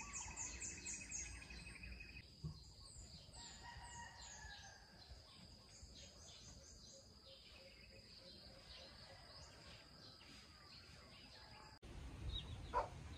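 Faint birds chirping in quick runs of short, high, falling notes over a steady high whine. The sound breaks off abruptly near the end and something louder follows.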